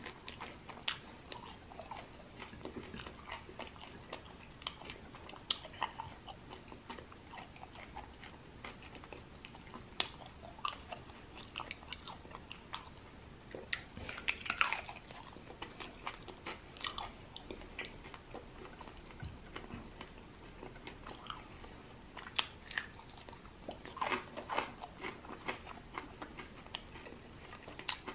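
A person chewing and biting sauced fried chicken wings close to the microphone: soft crunches and mouth sounds, with a louder bite about halfway through and another burst of chewing near the end.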